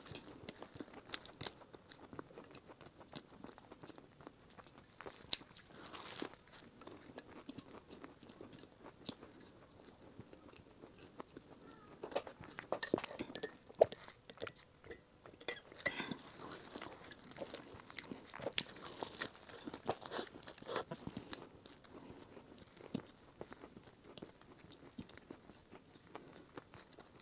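Close-miked eating of a flaky chestnut pastry: soft crunches of the crust between slow chewing. About halfway through, a few sips of tea through a straw.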